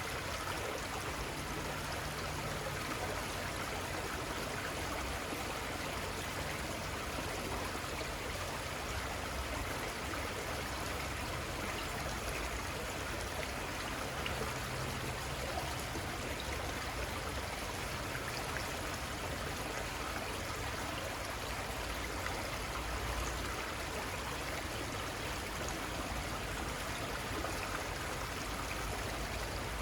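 A river flowing with a steady rush and babble of water, unchanging throughout.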